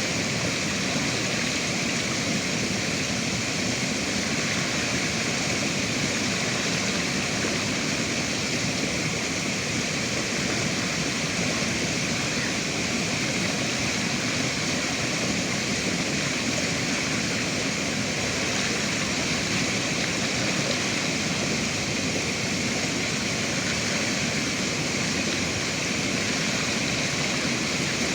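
Steady rushing of flowing river water, an even noise with no pauses or changes.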